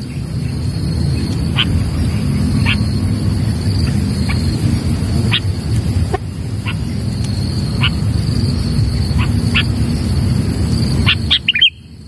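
A bird gives short, sharp chirping call notes, roughly one a second, with a quick run of louder notes near the end. Under it runs a steady high insect buzz and a steady low rumble.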